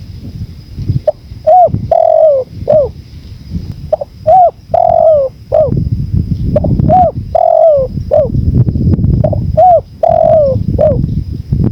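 Spotted dove (tekukur) cooing its song, about four phrases roughly three seconds apart, each a couple of short notes and a longer falling coo. Under it runs the rumble of wind.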